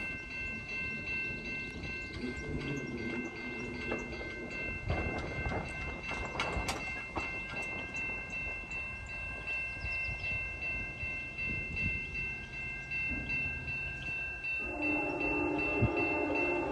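Grade-crossing bell ringing steadily as a train approaches. Near the end the lead locomotive's multi-chime horn starts to blow: CN SD70M2 8818's Nathan K5LLA horn.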